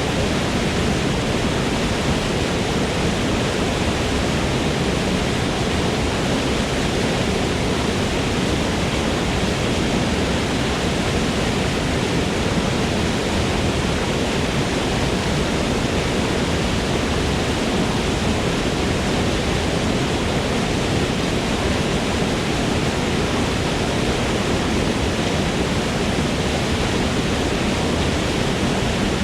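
Forest waterfall: water falling and rushing in a steady, unbroken roar, even across the lows and mids with no distinct splashes.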